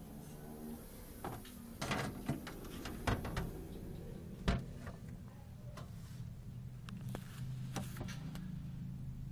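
Scattered knocks and clicks of things being handled, the loudest about two, three and four and a half seconds in, over a steady low hum.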